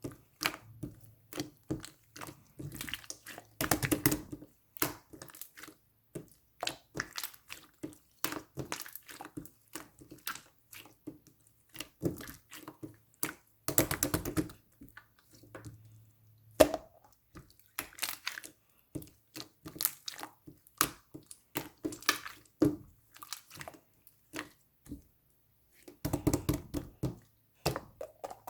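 Blue slime being squeezed and kneaded by hand, giving irregular wet clicks and pops, with denser crackling runs about four, fourteen and twenty-six seconds in.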